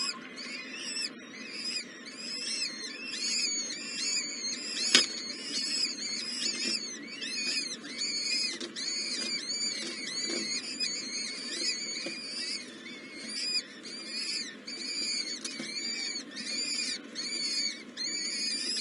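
Nestling birds chirping continuously in the nest, high thin arched calls repeated about four times a second, over a low background hiss. A single sharp click about five seconds in.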